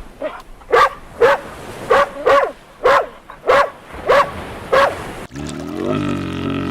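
A dog barking repeatedly, about eight single barks spaced roughly half a second to a second apart. A little after five seconds in the barking stops and a different long, low, steady call with a deep buzzing tone takes over.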